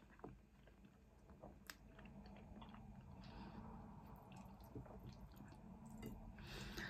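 Faint close-up chewing of soft pasta and bread, with scattered soft mouth clicks and wet squishes.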